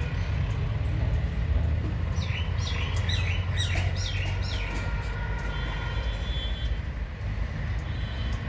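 A bird chirps a quick run of short falling notes, starting about two seconds in, over a steady low rumble.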